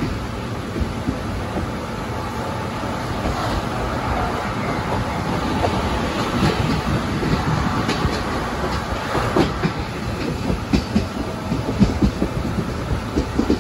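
Train of 12-series passenger coaches running on the rails: a steady rumble with the clickety-clack of wheels over rail joints, the clacks coming more often in the second half.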